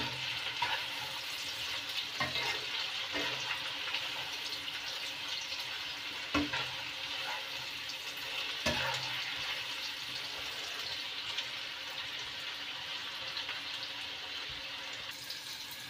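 Sliced onions, tomatoes, ginger and garlic sizzling as they shallow-fry in hot oil in a non-stick kadhai, stirred with a perforated spatula that scrapes and knocks against the pan a few times.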